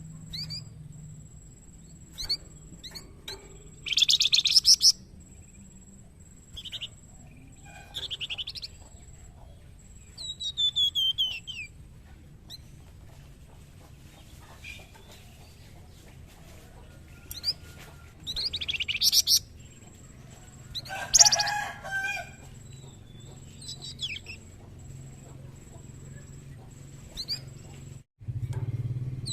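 A young songbird, known to Indonesian bird keepers as flamboyan, singing in short bursts of high chirps and quick descending trills, with pauses of a few seconds between phrases. A louder, lower and harsher call stands out a little after the middle, over a steady low background hum.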